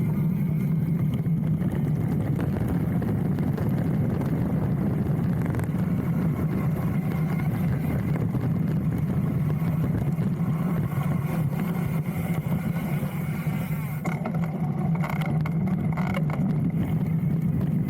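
Wind buffeting a handlebar-mounted action camera's microphone, with the rumble of a hardtail mountain bike's tyres rolling over a dirt trail. There is a steady low drone throughout, and a few rattling clicks after about 14 seconds.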